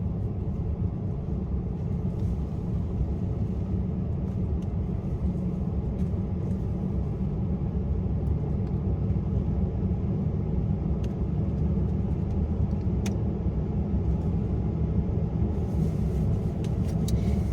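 Car heater running inside a parked car with the engine on: a steady low rumble with a blowing hiss, and a few faint ticks.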